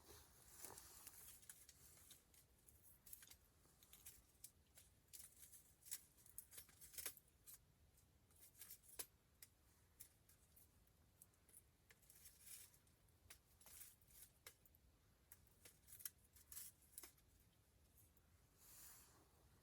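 Wood campfire crackling faintly: scattered sharp pops and ticks at irregular intervals, with a few soft hissing swells.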